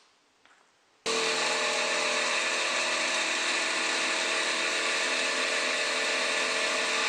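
Power grinder running steadily against steel while shaping a clamp part. It starts abruptly about a second in and holds an even, high whine.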